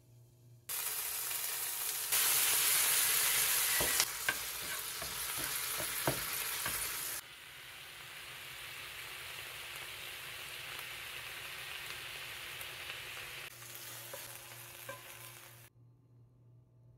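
Sea bream and chopped tomatoes sizzling in a hot oiled frying pan, with a few sharp knocks. The sizzle starts suddenly about a second in, drops to a quieter, steady level about seven seconds in, and cuts off near the end.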